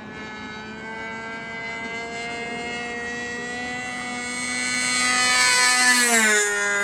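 Super Tiger two-stroke glow engine of an RC model airplane running at high throttle, growing steadily louder as the plane approaches, then falling sharply in pitch as it passes close by about six seconds in.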